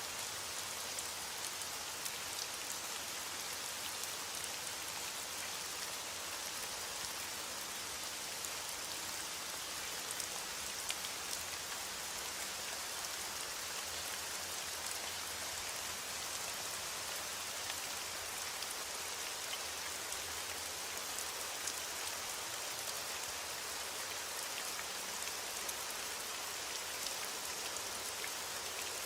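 Steady rain falling, an even hiss with many small drop patters scattered through it.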